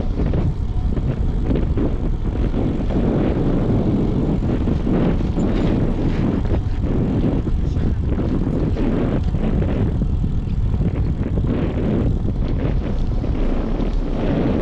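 Wind buffeting the microphone of a moving bicycle: a dense, steady low rumble with irregular gusty swells.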